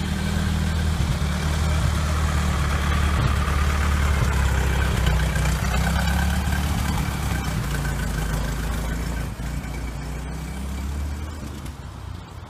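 1916 Ford Model T's four-cylinder side-valve engine running steadily as the car drives past and away. The sound fades over the last few seconds.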